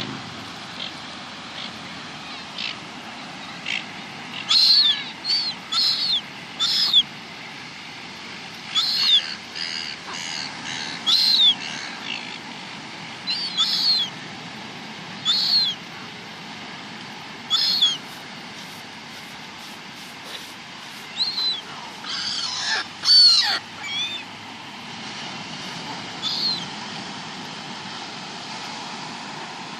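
Gulls squabbling, giving a series of short, high squealing calls, about a dozen spread through the stretch, with a louder burst of calls about two-thirds of the way in. A steady hiss of background noise runs underneath.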